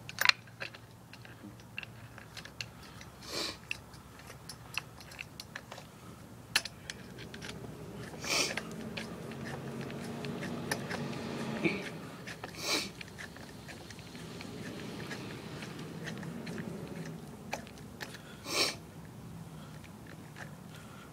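Scattered clicks and light knocks of small metal parts and hand tools being handled while a bolt is fitted through a fender washer onto a supercharger impeller, with a few sharper taps.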